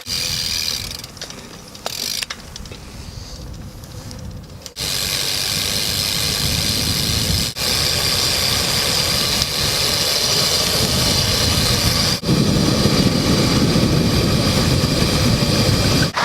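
Steady rushing wind and rolling noise of a BMX bike being ridden, in several short stretches cut together.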